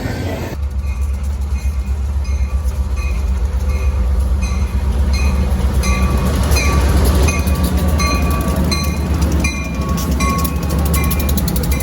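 A train passing with a steady low rumble, and a bell dinging about twice a second throughout, typical of a grade-crossing bell. Fine rhythmic wheel clicks come through near the end.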